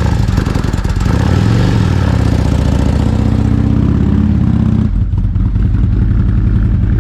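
Harley-Davidson V-twin motorcycle engine running, its note rising slightly and then dropping back abruptly about five seconds in to a steady idle.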